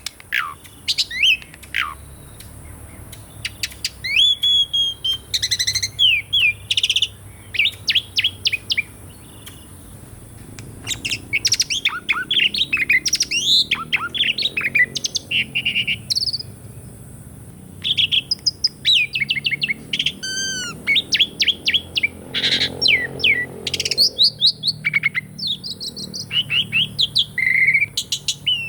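Javan pied starling (jalak suren) singing loudly: a varied run of whistles, rising and falling sweeps and quick chirps in bursts, with short pauses between phrases.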